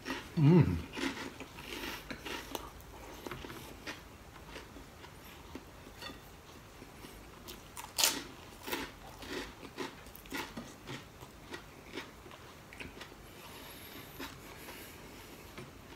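A person eating crunchy fried dried squid and dried fish up close: crisp bites and crackly chewing, with the loudest crunch about 8 seconds in. The squid is crispy yet chewy.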